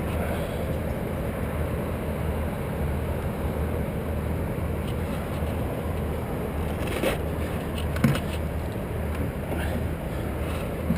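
A steady low drone runs throughout, with a couple of brief knocks about two-thirds of the way in.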